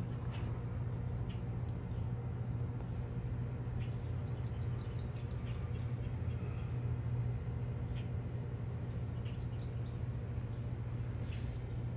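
Steady high insect trill, typical of crickets, over a steady low hum, with scattered faint short chirps.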